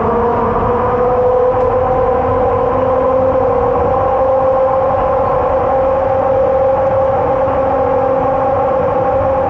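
Dulles AeroTrain people mover (Mitsubishi Crystal Mover, rubber-tyred on a concrete guideway) running at speed just after departing, heard from inside the car. Its electric drive makes a steady whine of several tones that rises slightly in pitch over the first few seconds and then holds, over a low rumble.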